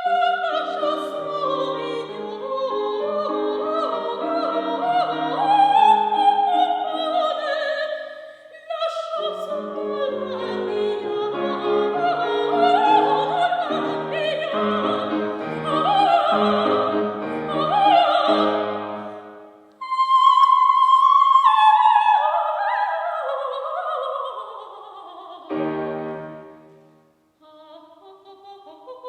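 Soprano singing a coloratura opera aria with piano accompaniment. The line breaks off briefly about eight seconds in; from about two-thirds of the way through come quick descending runs, closed by a piano chord.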